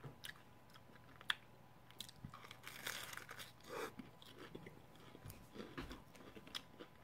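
Close-miked crunching and chewing of a crispy fried-tortilla taco shell, with a sharp crack about a second in, then irregular crunches as it is chewed.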